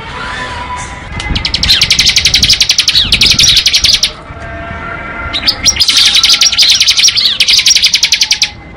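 Bar-winged prinia (ciblek) singing its 'ngebren' song: two long, very rapid drill-like trills of high notes, each about three seconds, the second beginning about five and a half seconds in.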